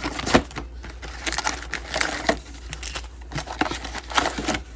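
Plastic wrapping on a box and packs of trading cards crinkling as it is handled and torn open, in a run of irregular crackles.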